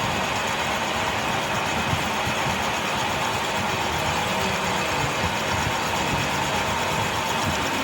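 A workshop machine running steadily, an even mechanical noise with a faint constant whine and no break or change.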